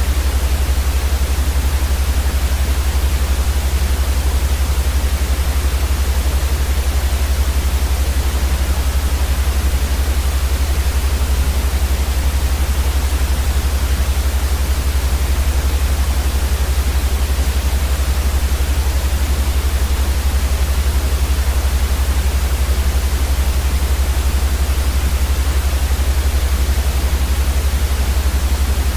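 Steady synthetic white noise, an even hiss, unchanging throughout, with a strong deep hum beneath it.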